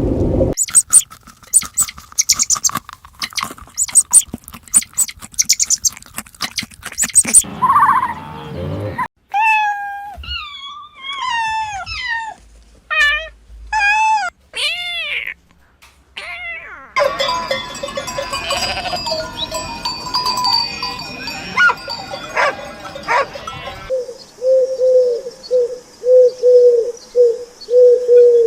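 A string of different animal sounds, one after another. First comes a dense run of clicks. Then come several short calls that bend up and down in pitch, then a busy jumble of noises, and near the end a quick series of short, evenly repeated calls.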